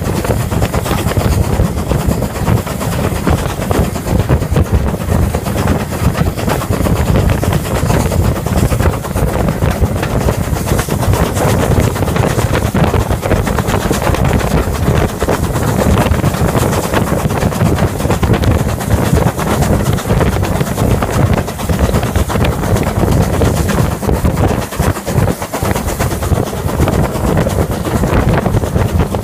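Wind buffeting the microphone over the steady running rumble of a steam-hauled train at speed, close behind the tender of an Ivatt class 4MT 2-6-0 locomotive.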